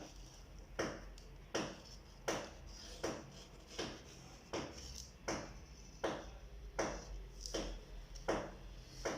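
A steady series of sharp knocks, about one every three-quarters of a second, each with a short ringing after it, like repeated tool strikes.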